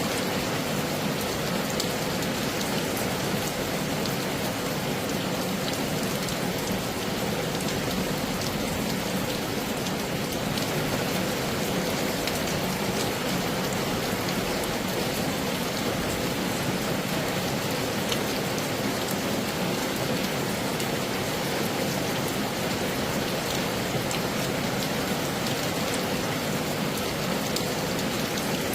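Heavy rain falling steadily: a dense, even hiss of rain with scattered sharper ticks of individual drops.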